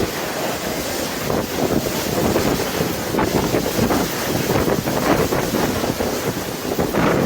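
Wind buffeting the microphone: a loud, rough rushing that rises and falls unevenly.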